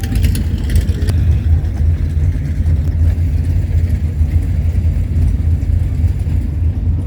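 Deep, steady rumble of a muscle car's engine idling.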